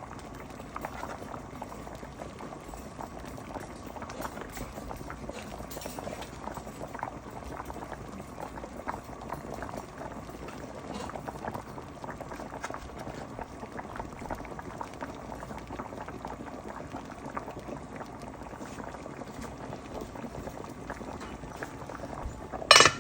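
A pot of metemgee (provision soup) bubbling at a boil, a steady simmer full of small pops and crackles. A loud knock sounds near the end.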